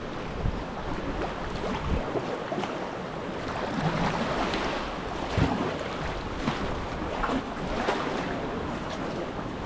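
Wind buffeting the microphone over sea water around a kayak, with irregular splashes every second or so.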